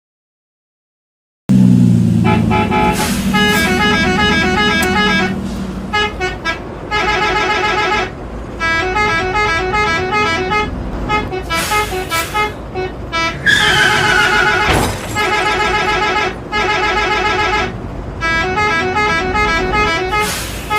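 Multi-tone 'telolet' bus horn playing a quick tune of short notes, with brief gaps between phrases. It starts suddenly about a second and a half in, and a short falling whistle-like tone cuts through about halfway through.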